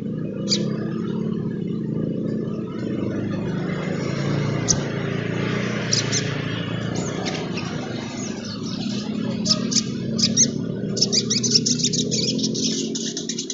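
Sunbird (sogon trotol) giving scattered sharp high chirps, then a fast, dense twittering run near the end, over a steady low rumble like a passing vehicle that is the loudest sound.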